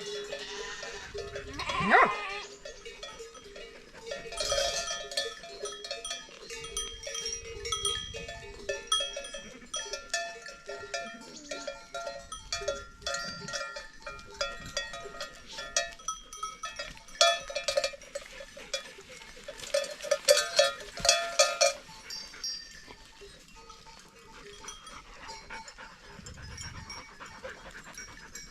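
Many livestock bells clanking irregularly and overlapping, as worn by a grazing herd or flock, with a short rising animal call about two seconds in.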